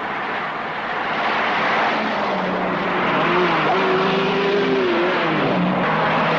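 Car engine revving, its pitch rising and falling around the middle, over dense rushing noise.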